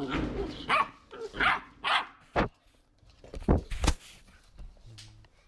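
Three-month-old pit bull puppies barking and yipping during play: a string of short, sharp barks, about half a dozen in the first four seconds, then quieter.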